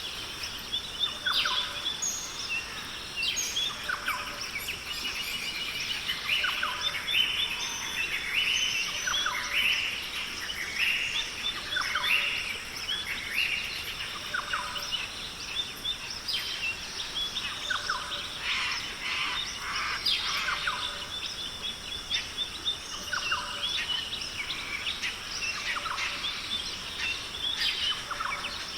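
Australian rainforest bird chorus: many birds chirping and calling over one another in short, quick phrases, over a faint steady high-pitched hum in the background.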